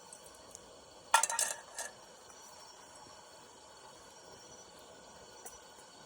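Kitchenware clinking: a quick run of sharp metallic or glassy knocks with a short ring, about a second in, over a faint steady hiss.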